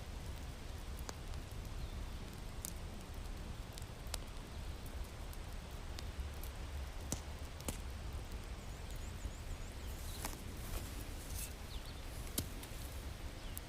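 Wood fire crackling in a fireplace: a steady low hiss and rumble with sharp pops every second or two, a few close together near the end.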